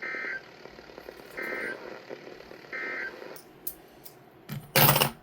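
NOAA Weather Radio end-of-message SAME data bursts: three short buzzy digital tones about a second and a half apart, marking the end of the warning broadcast. Near the end comes a brief, loud burst of noise, the loudest sound.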